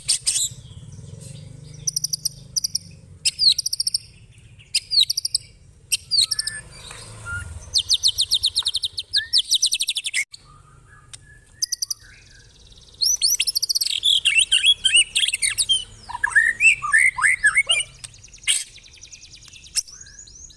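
A songbird gives long, harsh 'cililin'-style chattering: rapid runs of sharp high notes lasting a second or more each, with short pauses between them. Near the end comes a busier stretch that mixes the trills with lower, falling whistled notes.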